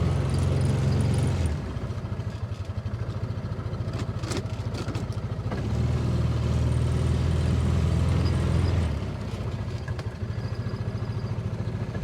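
Small vehicle engine running steadily, getting louder twice as it is given throttle, for about the first second and a half and again from about six to nine seconds in, with a few light clatters in between.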